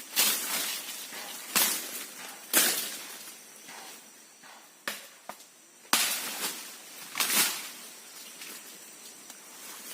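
Irregular sharp crashing hits in wood and leafy brush, each trailing off in a rustle, about seven of them and quieter after the last.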